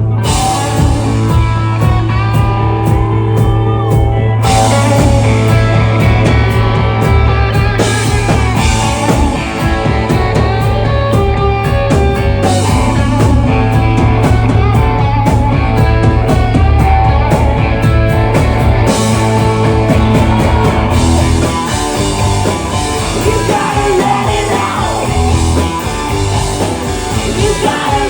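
Rock band playing live, with electric guitar and drum kit; the drums fill out about four seconds in.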